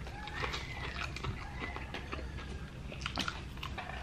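People chewing and biting into crispy fried chicken legs, close to the microphone: scattered small crunches and mouth sounds.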